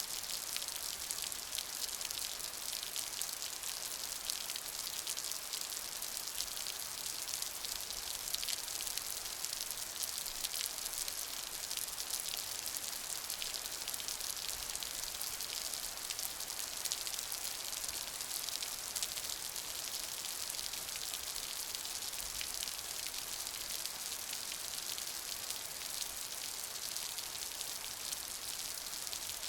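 Steady rain: a dense, even hiss of many small drop impacts, bright and high, without letting up.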